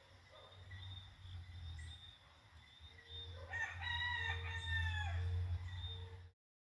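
A rooster crowing once, a drawn-out call that starts about three and a half seconds in and falls away at its end, with fainter bird calls before it. Under it runs a steady low rumble, and the sound cuts out abruptly near the end.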